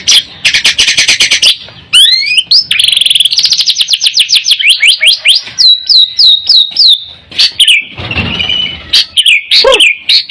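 White-rumped shama (murai batu) singing loudly and continuously. It opens with rapid runs of sharp repeated notes and a fast trill, then a quick series of rising-and-falling whistled notes.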